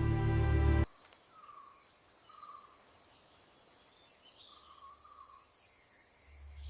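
Music that cuts off abruptly under a second in, then faint outdoor ambience: a steady high insect drone with a few short chirps scattered through it.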